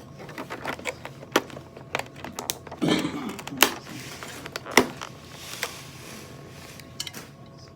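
Close-miked eating of shrimp salad: chewing with scattered sharp clicks and taps of utensils and container, and a louder rustling burst about three seconds in.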